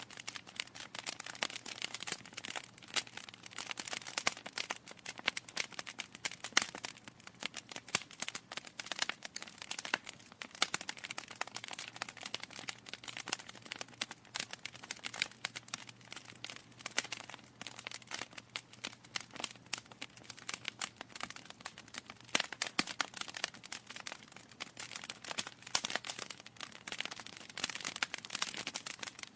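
Wood fire in a fireplace crackling: a dense, irregular stream of small snaps and pops from burning logs, with a faint low hum underneath.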